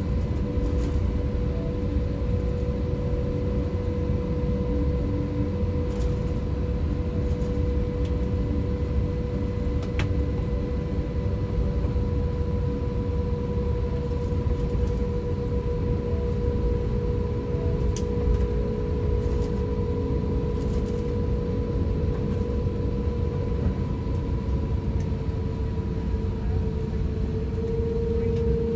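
Steady low rumble and constant hum inside the cabin of an Airbus A350-1000 rolling on the ground after landing, the hum shifting slightly in pitch near the end.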